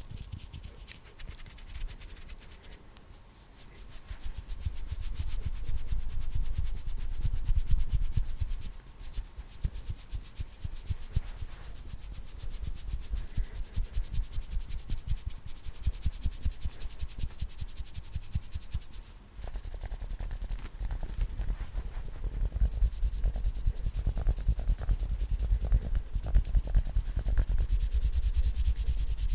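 Fast hand sounds close to the microphone: hands rubbing and brushing against each other in rapid strokes, with a brief pause about two-thirds of the way through.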